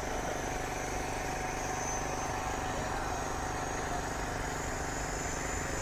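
Radio-controlled scale Huey helicopter flying, its motor and rotor running steadily with an even, low pulsing chop.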